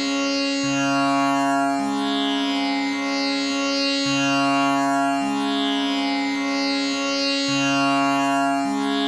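Tanpura drone tuned to C sharp. Its strings are plucked in a steady repeating cycle of about three and a half seconds, and the notes ring into one another with the buzzing, shimmering overtones of the bridge.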